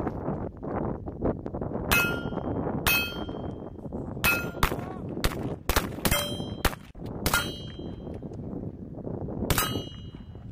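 About ten sharp gunshots on a rifle range, several followed by a short metallic ring as bullets strike steel targets, over steady wind noise.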